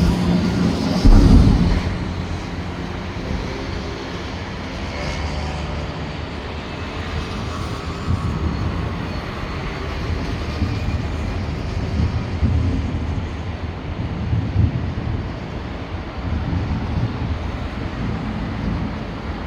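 Fireworks display: one loud low boom about a second in, then a steady low rumble with fainter booms now and then.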